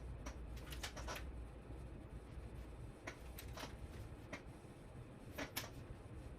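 A scattering of short, light clicks and taps over a low steady hum, as small parts, wires and tools are handled.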